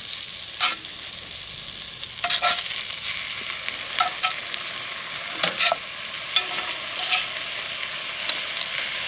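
Chicken pieces sizzling in a hot pan of oil with onions and garlic, with a steady frying hiss and scattered clicks and scrapes of a utensil moving them around the pan.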